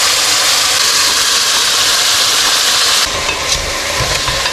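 Food sizzling loudly in a hot saucepan, a steady hiss. About three seconds in, the sizzle drops abruptly and gives way to a quieter sizzle with a few light knocks, as of stirring in the pan.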